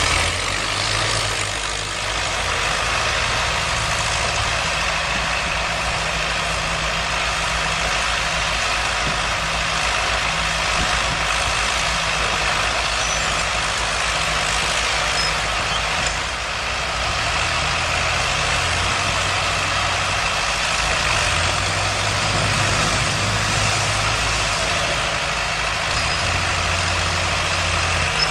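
Heavy engine of a large machine running steadily, with a low hum that shifts pitch in steps every few seconds.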